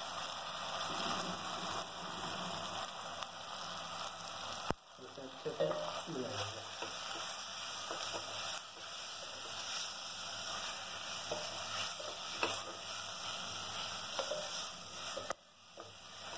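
Onions, tomatoes and spice powders sizzling in hot oil in a pressure cooker, stirred and turned with a wooden spatula. A sharp click about five seconds in.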